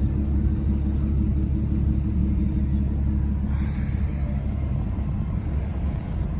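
2014 Audi A7 Quattro's exhaust idling with a steady low rumble.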